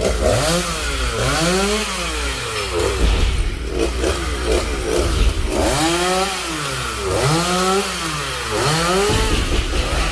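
Chainsaw revving up and down again and again, each rise and fall in pitch lasting about a second, as it cuts felled fig-tree branches into small pieces. The revving is less distinct for a few seconds in the middle.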